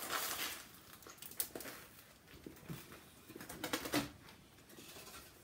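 Chewing and crunching of a crispy-coated sandwich, with wet mouth noises and a brief low hum in the throat. A louder cluster of crunches comes about four seconds in.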